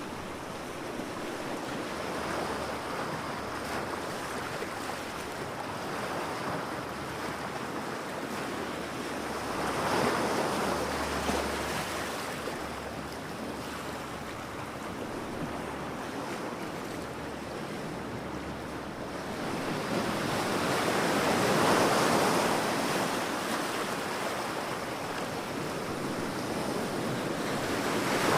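Waves breaking on a beach, a continuous wash of surf with swells as sets come in, about ten seconds in, over several seconds around two-thirds through, and again at the end.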